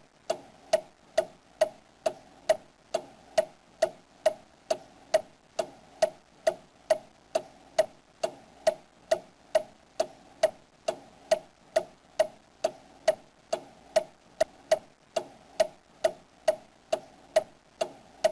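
Steady, even ticking, about two ticks a second, each tick a short sharp click with a brief mid-pitched knock.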